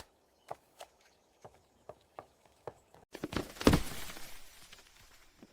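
Cartoon sound effects of light footsteps, about seven irregular steps, then a louder burst of rustling with a thump about three and a half seconds in, fading away.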